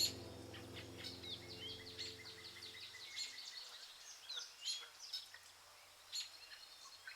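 Birds chirping and singing: many short, quick calls throughout, over the tail of soft background music that fades out about three seconds in.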